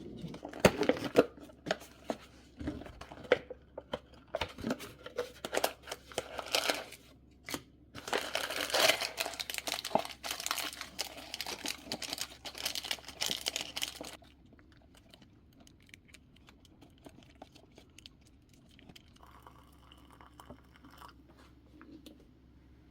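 Plastic wrapping of an instant malatang packet being torn open and crinkled, with many sharp crackles, for about fourteen seconds before the handling turns much quieter.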